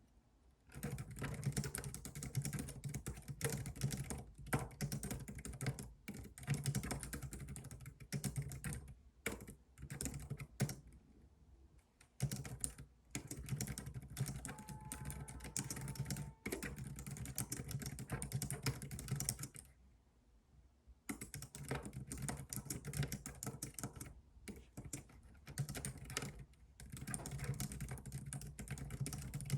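Typing on a computer keyboard in fast runs of keystrokes, with a couple of short pauses, the longest about two-thirds of the way through.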